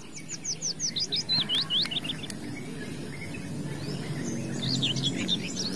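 Small bird chirping: a quick run of about ten short, high, downward-sweeping chirps in the first two seconds, then a few more a little before the end.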